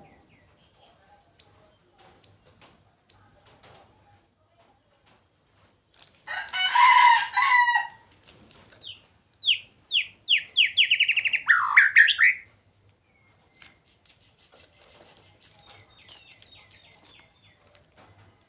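A songbird singing: three short high falling whistles, then a loud harsh two-part call, then a quick run of falling notes ending in a loud swooping note, with faint chirps after.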